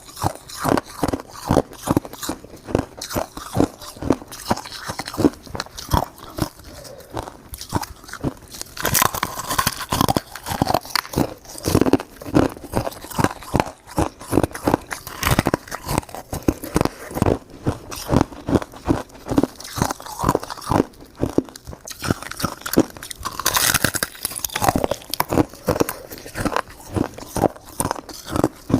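Close-up chewing and crunching of shaved ice: a steady run of short, sharp crunches, a few each second.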